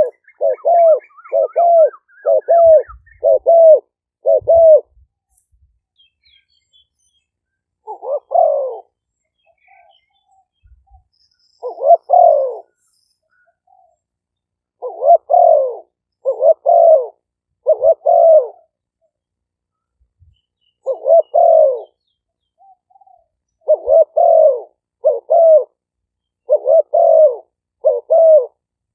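Captive decoy spotted doves cooing: loud low coos, a quick run of about six at the start, then single coos and runs of three to five with pauses between. A faint series of high chirps rises in pitch over the first couple of seconds.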